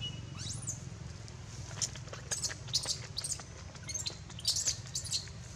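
Birds chirping: a scattered string of short, high chirps that come thicker from about two seconds in, over a low steady background rumble.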